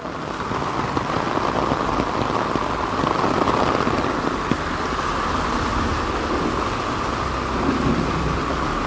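Heavy rain pouring steadily and drumming on an umbrella held just above the microphone, growing louder right at the start, with a low rumble underneath that strengthens near the end.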